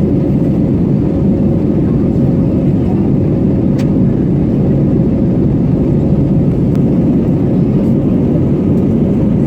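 Steady cabin noise of an Airbus A320neo airliner in flight: an even, low roar of engines and airflow heard from inside the passenger cabin.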